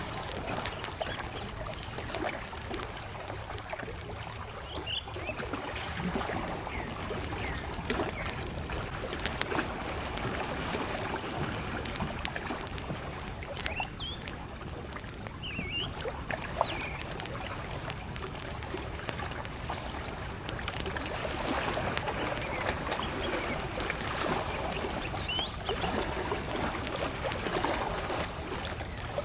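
Small lake waves lapping at the shore under a crackling campfire, with sharp pops scattered through. A few distant birds give short chirps now and then.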